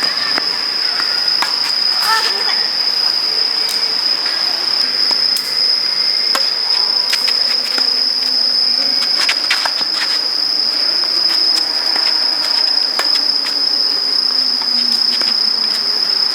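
Steady high-pitched insect drone that does not change, with tennis balls struck by rackets in scattered sharp knocks.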